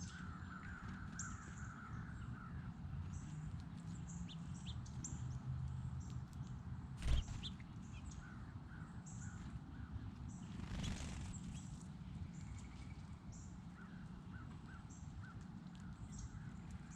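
Wild birds calling: runs of short, quickly repeated calls come and go, with frequent brief high chirps over them. A single sharp knock sounds about seven seconds in.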